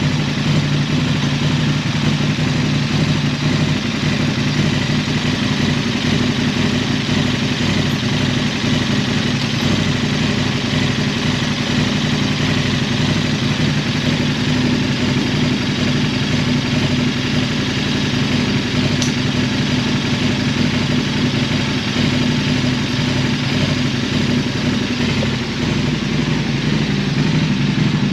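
KTM 1290 Super Adventure's V-twin engine idling steadily, with an even low hum that holds without revving.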